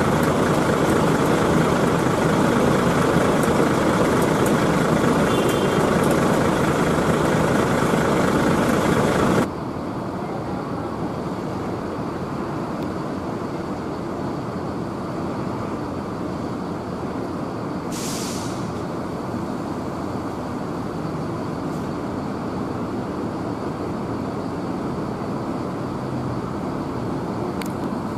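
Large buses running at a bus terminal: a steady engine and traffic din that drops suddenly to a quieter level about a third of the way in, with one short air-brake hiss about two-thirds of the way through.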